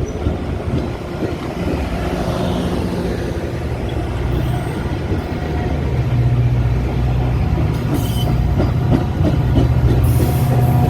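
Metra commuter train approaching the platform: a steady low rumble of engine and wheels that grows louder about halfway through, with a couple of brief hisses near the end.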